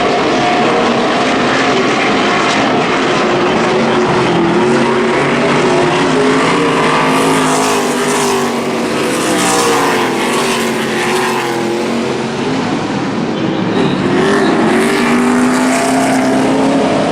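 NASCAR Camping World Truck Series race trucks' V8 engines running at racing speed around the dirt oval, a pack of several trucks whose engine pitch rises and falls as they pass, louder twice, about halfway through and again near the end.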